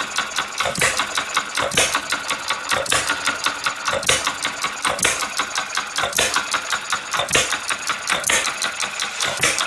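Small self-built model hit-and-miss engine running, with a fast mechanical clicking and a louder knock about once a second.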